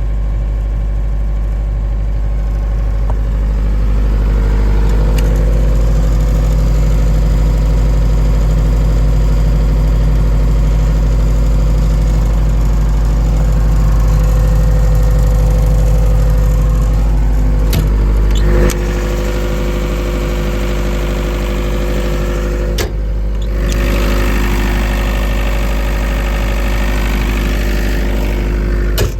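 Atlas Copco QAS 38 generator's Yanmar diesel engine running steadily. There are a few sharp knocks in the second half, with small shifts in its tone around them.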